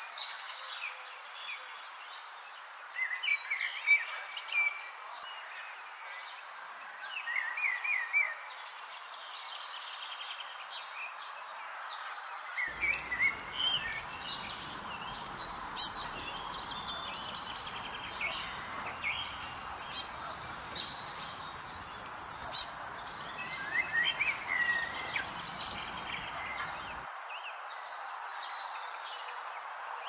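Wild birds chirping and singing, with short calls and quick trills scattered throughout over a steady hiss of outdoor ambience. A steady high pulsing trill runs through the first twelve seconds or so.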